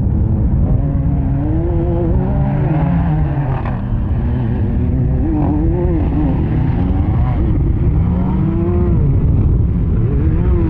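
Rally-raid buggy engines at full throttle, the revs climbing and dropping again and again, over a heavy low rumble.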